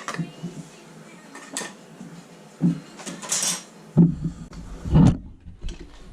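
Metal tools and parts being handled: scattered clinks and knocks, a short scrape just after the middle, and two heavier thumps about four and five seconds in.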